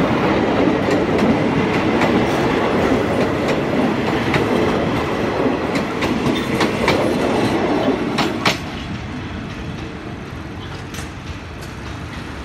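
Passenger train carriages rolling past at close range: a steady rumble of wheels on rail with repeated clicks over the rail joints. The noise drops sharply about eight and a half seconds in and stays lower.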